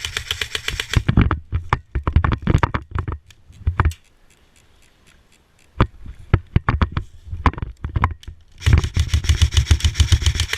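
Airsoft electric gun firing on full auto: a rapid burst that stops about a second in, then scattered single shots, a short lull, more shots, and a long fast burst of about two seconds near the end.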